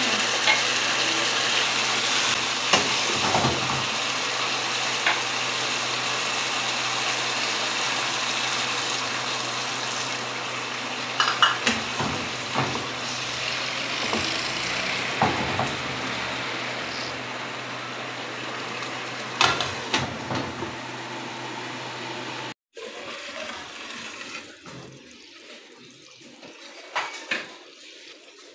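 Okra masala sizzling in a wok, a steady hiss, with the spatula knocking and scraping against the pan now and then. After a cut near the end it is much quieter, with a few small clicks.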